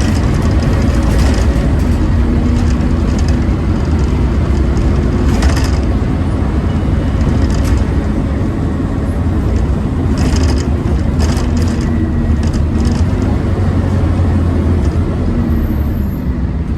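Scania OmniCity N230UD double-decker bus running under way, a loud steady low engine drone with short rattles and clatters now and then. This bus is pretty loud, of the kind enthusiasts call a 'hoover'.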